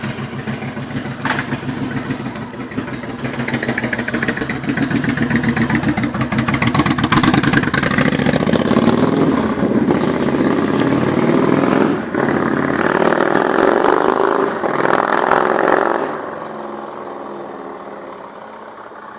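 Yamaha DragStar XVS1100's air-cooled V-twin running through short Cobra Speedster Shorts exhaust pipes with the dB-killer baffles fitted. The engine note grows louder over the first half, holds with a brief dip about twelve seconds in, then fades steadily near the end.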